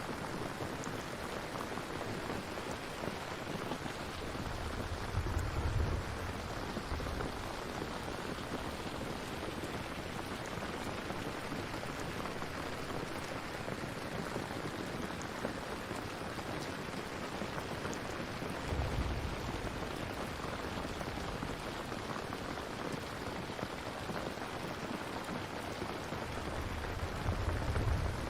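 Steady rain falling, an even hiss of drops, with three brief low rumbles: about five seconds in, near the middle and near the end.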